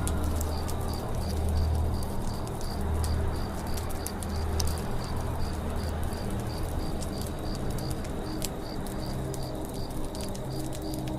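Campfire crackling, with many sharp irregular pops over a low rumble. Behind it a high chirp repeats at a steady rate of about two or three times a second.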